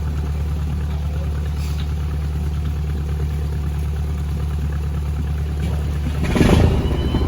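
Boat engine running steadily with a low drone. About six seconds in, a loud rushing burst lasting about half a second, after which the engine sound changes.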